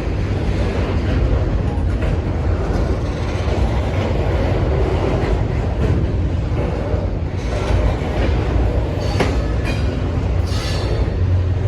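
Norfolk Southern intermodal freight train rolling past, a steady heavy rumble of wheels on rail, with brief high-pitched wheel squeals and clicks in the last few seconds.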